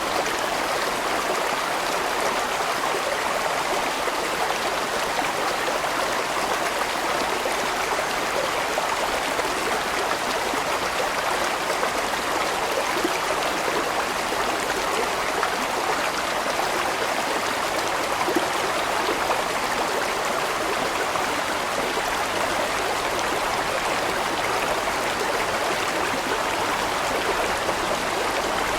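Large mountain stream flowing, a steady rushing of water over rocks.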